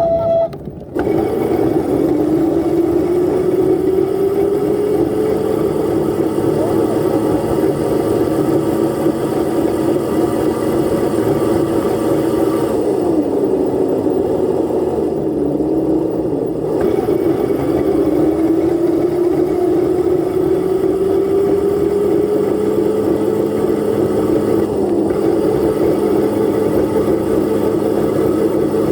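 Dirt bike engine running under way, its pitch climbing slowly as it gains speed, dropping off about halfway, climbing again, then holding steady near the end.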